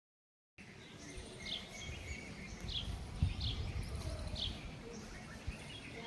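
A small bird chirping, four short high notes spaced about a second apart, over a steady low rumble, with one thump about three seconds in.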